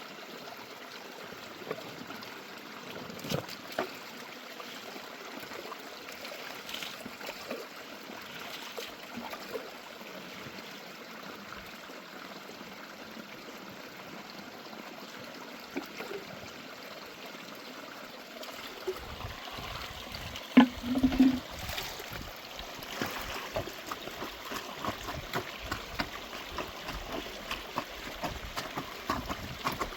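Steady running water, with scattered small knocks and a louder thump about 20 seconds in.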